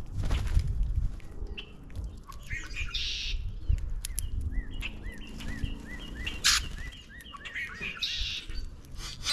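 Birds calling at a backyard feeder where common grackles are feeding. Through the middle one bird repeats a short chirp a few times a second. Two harsh, raspy calls come about three seconds in and again near the end, with scattered sharp clicks and taps among them.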